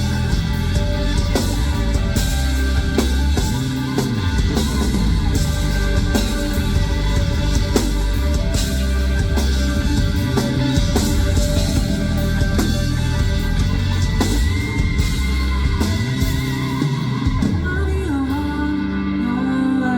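Live rock band playing loudly: drum kit with cymbals, electric guitars and bass, with some singing. Near the end the cymbals drop out and the music turns quieter.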